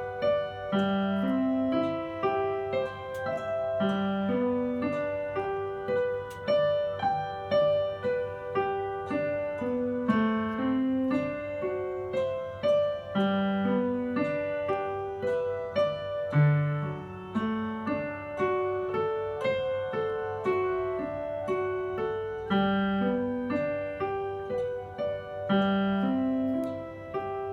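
Solo piano playing a gentle beginner's piece at a steady pace: a rocking low accompaniment figure repeating every few seconds under a simple melody in the middle register.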